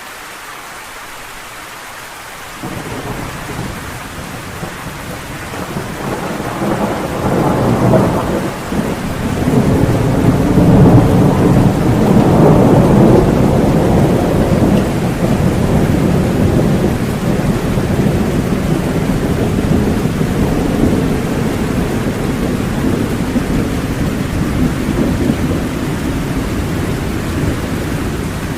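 Steady rain with a long roll of thunder. The thunder comes in about two and a half seconds in, swells to its loudest around the middle, and slowly rumbles away under the rain.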